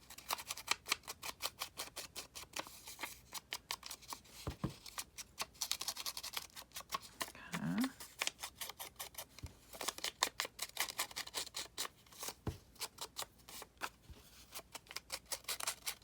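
Scissors cutting through scrapbook paper: quick runs of crisp snips, several a second, with short pauses between runs.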